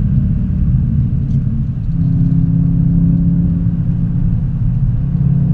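Car engine heard from inside the cabin while driving, a loud steady drone whose note steps up and holds about two seconds in.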